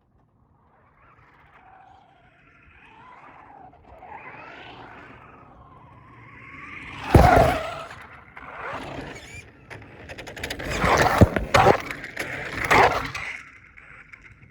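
Radio-controlled toy car driving: its motor whine rises and falls. Then come several louder bursts of scraping and knocking, the loudest about halfway through and again near the end.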